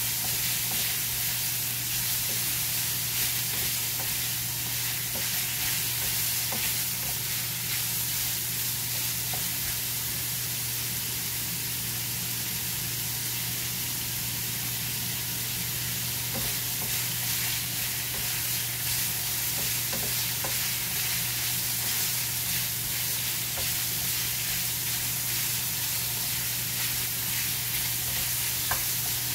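Pieces of meat sizzling steadily as they fry in a frying pan, stirred now and then with a wooden spatula that gives a few light knocks against the pan.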